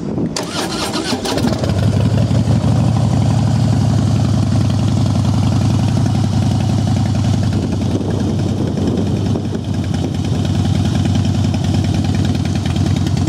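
2012 Harley-Davidson Fat Boy's 103 cubic-inch V-twin, fitted with SuperTrapp exhausts, is started and then settles into a steady idle about a second and a half in.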